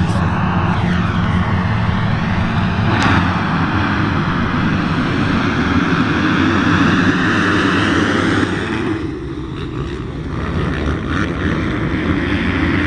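A pack of motocross bikes running hard together as they race away from the start, many engine notes rising and falling over one another. A short sharp crack comes about three seconds in, and the noise eases a little about nine seconds in before building again.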